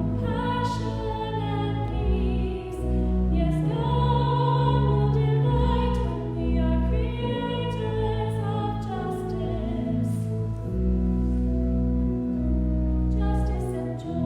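Church music: a hymn sung with instrumental accompaniment, held chords changing every second or two over a sustained low bass line.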